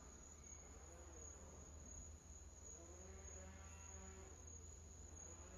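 Near silence: room tone with a steady high-pitched whine and a low hum.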